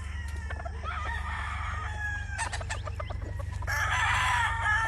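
Several game roosters crowing over one another amid clucking, with the loudest crowing in the last second or so. A quick run of clicks about two and a half seconds in, and a steady low hum underneath.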